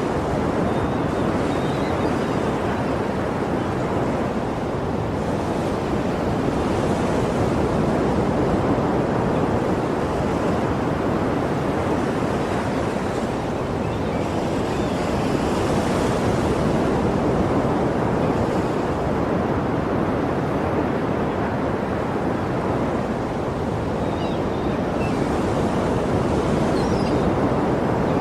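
Sea surf: waves breaking and washing in, a steady rush of water that swells and eases every several seconds.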